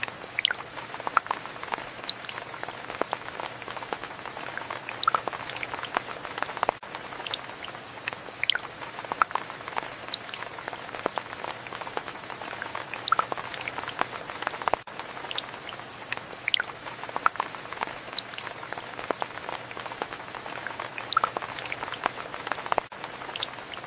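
Steady rain with many individual drops pattering close by at irregular moments.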